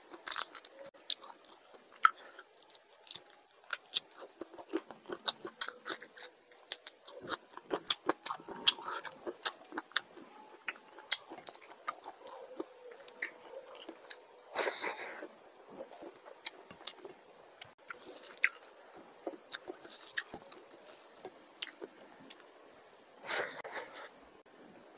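Close-miked eating sounds of a person eating rice and fish curry by hand: wet chewing and many sharp lip smacks and clicks, with a few longer, louder bursts midway and near the end.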